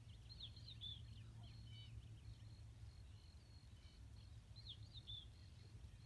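Faint outdoor ambience: small birds chirping, short high falling notes in two brief clusters, about half a second in and again about four and a half seconds in, over a low steady rumble.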